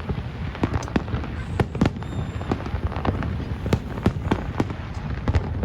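Fireworks display going off: a dense, irregular run of sharp bangs and crackles, several a second, over a constant low rumble.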